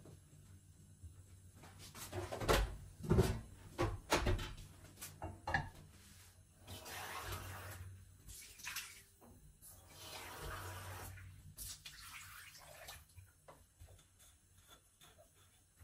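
Water running and splashing in short spells, after a few sharp knocks and clatters.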